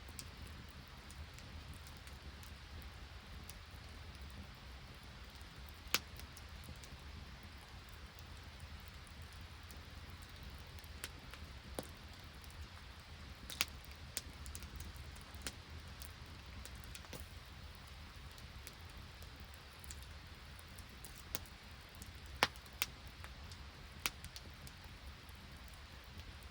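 Open wood campfire burning with a few sharp, scattered pops, over a steady hiss of rain.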